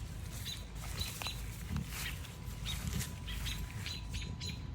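Birds giving short, sharp chirps over and over, several a second: parent birds alarm-calling over a fledgling that has fallen out of the nest.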